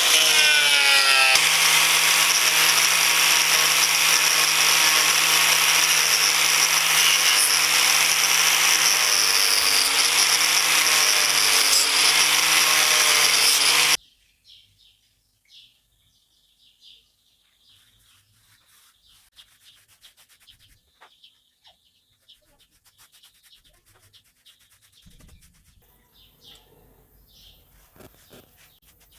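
A power tool runs steadily under load, its pitch wavering slightly, then cuts off suddenly about fourteen seconds in. Afterwards only faint bird chirps are left.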